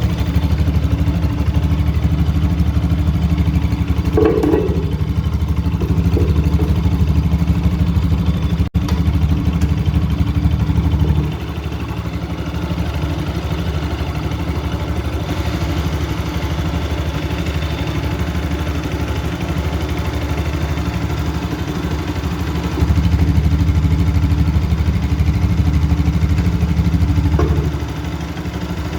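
Bajaj Pulsar RS 200's single-cylinder engine running at a steady speed through its exhaust. The sound gets noticeably quieter about eleven seconds in and louder again for a few seconds near the end.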